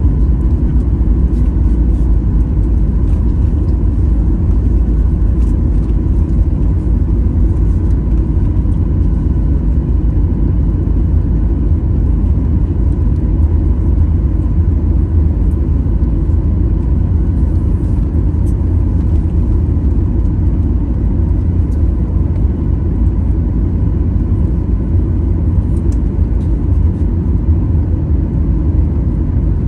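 Steady low rumble of jet engines and rushing air heard inside an airliner cabin, with a faint steady hum over it.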